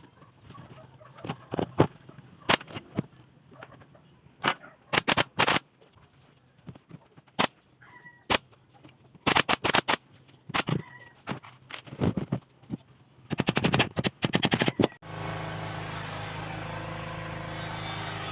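Irregular sharp knocks of woodworking, single or in quick clusters, the fastest run coming just before fifteen seconds in. Then a power tool's motor starts abruptly and runs steadily.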